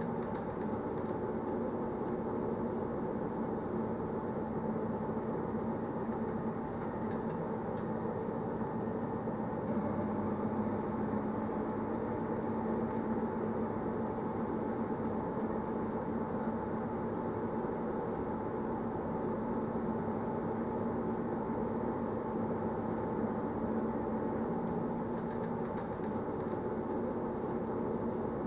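Electric train of the Bernese Oberland Railway running steadily along the track: a constant rumble with a steady low hum.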